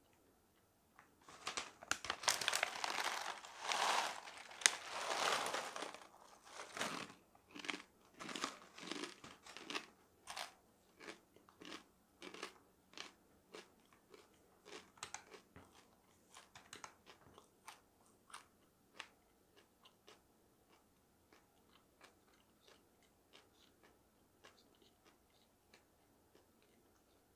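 A person biting into and chewing crunchy dried food up close. There is a burst of dense crunching at first, then slower single crunchy chews about once or twice a second that grow fainter and stop near the end.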